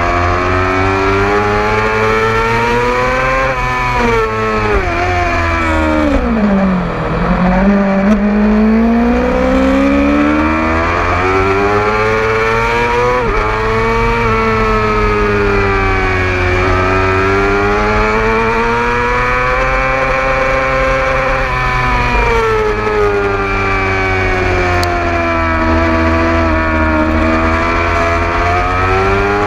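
A 600cc sport bike's engine at racing revs under its rider, heard onboard. The pitch falls steeply about a quarter of the way in as the bike slows and downshifts for a corner, then climbs back under throttle, rising and falling again through later corners and gear changes.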